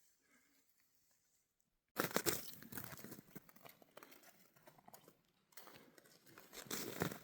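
Near silence, then about two seconds in a sudden start of loud, irregular crunching and crinkling close to the microphone.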